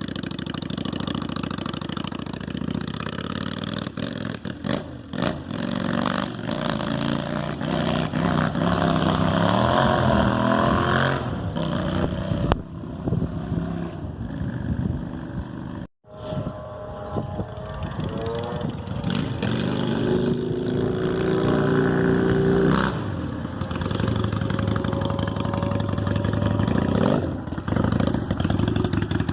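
Honda Shadow VLX 600's liquid-cooled V-twin running through new drag-pipe exhaust with the baffles in. The engine revs up and drops back twice. There is a brief break in the sound about halfway through.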